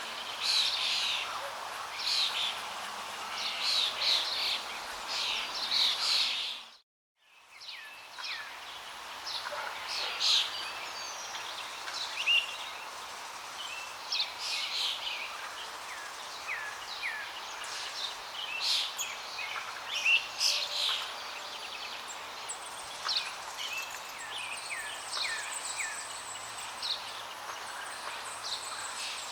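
Several songbirds chirping and calling, many short notes and some falling slurred whistles, over a steady background hiss of flowing water. The whole sound fades to silence for about a second about seven seconds in, then comes back.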